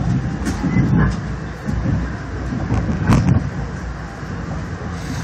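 Moving commuter train heard from inside a passenger coach: a steady low rumble of wheels on rail, with two sharp knocks about half a second and three seconds in.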